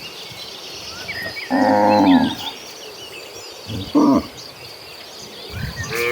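Cattle mooing: one long moo about a second and a half in, a shorter one around four seconds, and another starting near the end. Small birds chirp faintly in the background.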